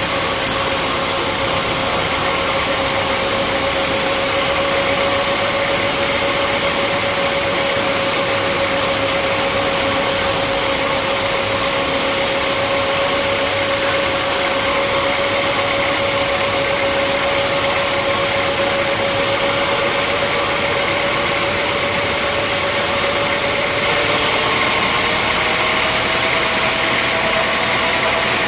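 Sawmill machinery running steadily with a constant humming tone. About three-quarters of the way through, the hum steps up slightly in pitch.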